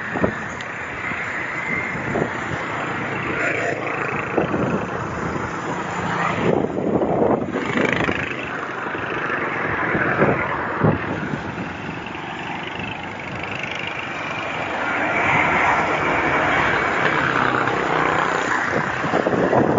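Wind buffeting the microphone and passing road traffic during a bicycle ride, a steady rushing noise that swells and eases.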